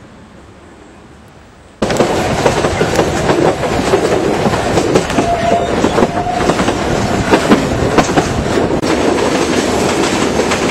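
Tren de Sóller electric train running on its narrow-gauge track, wheels rattling and clacking over the rails, starting abruptly about two seconds in, with a couple of short wheel squeals midway.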